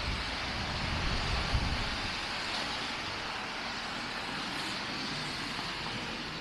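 Steady outdoor city noise, an even hiss of street traffic. Wind gusts on the microphone make a low rumble for the first two seconds, which then eases.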